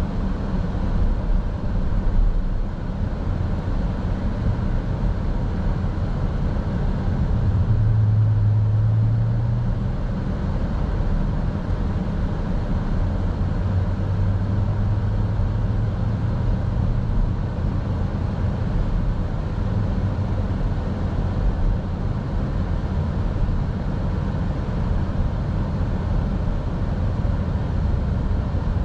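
Car driving, heard from inside the cabin: a steady low rumble of road and engine noise, with a low drone that swells a couple of times.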